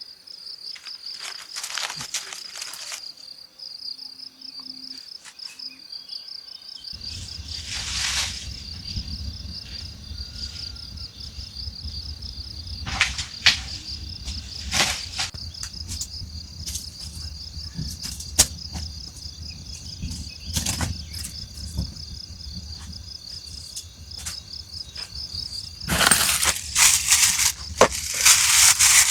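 Insects trilling steadily in a high, pulsing chirp, with scattered knocks and clicks. A low rumble comes in a quarter of the way through, and louder rustling covers the chirping near the end.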